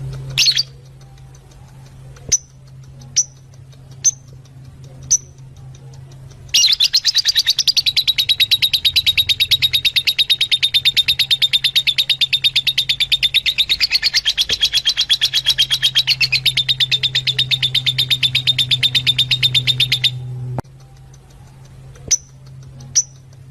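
Fischer's lovebirds calling: sharp single high chirps about once a second, then a long, fast, unbroken chattering trill lasting about 13 seconds, then single chirps again near the end. A steady low hum runs underneath.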